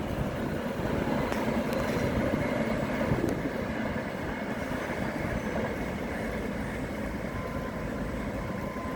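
Passing train rolling along the track: a steady rumble of wheels on rails that slowly eases, with a few faint clicks from the wheels.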